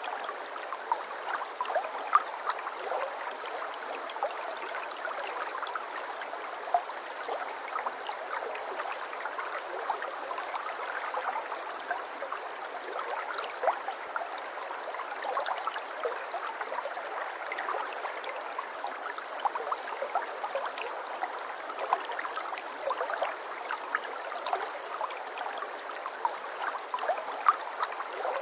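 Shallow babbling brook: water burbling and splashing over stones, a steady flow scattered with small quick splashes and gurgles.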